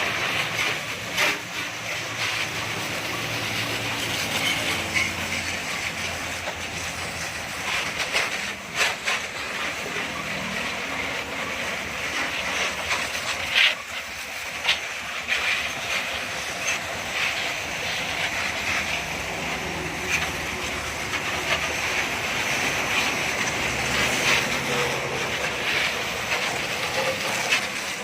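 High-pressure spray gun jetting water onto a motorbike: a steady hiss of spray spattering on the bike, with a few sharp clicks, the loudest about halfway through.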